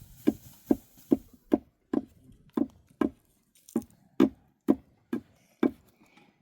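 A steady run of dull knocks, about two a second, about a dozen in all, stopping near the end.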